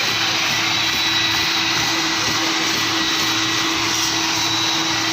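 A motor-driven machine running steadily: a constant whine over a loud rushing hiss, unchanging throughout.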